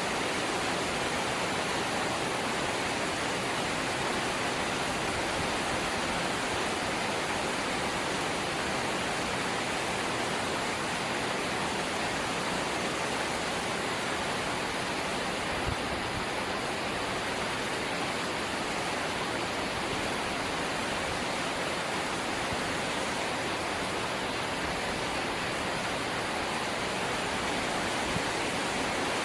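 Light rain falling steadily, an even hiss without a break, with a couple of faint ticks.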